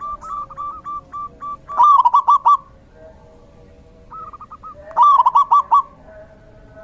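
Zebra doves cooing: rapid staccato runs of short hooked notes, one loud run about two seconds in and another about five seconds in, with softer, evenly spaced notes at the start and a short run a little after four seconds.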